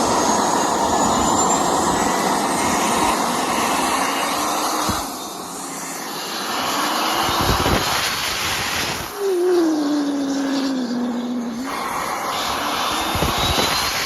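Twin-turbocharged diesel engine running hard, with a whistle rising in pitch over the engine noise. About two-thirds of the way through, the engine note falls away briefly as it comes off the throttle, then it picks up again.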